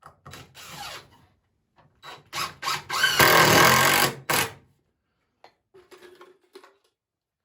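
Power drill driving a self-starting screw into poplar wood: a short run, a few quick bursts, then a longer run of about a second as the screw goes home, and one last short burst.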